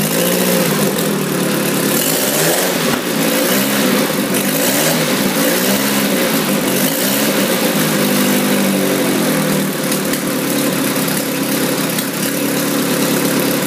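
The Militaire's engine running after start-up, its speed rising and falling again and again as the throttle is worked.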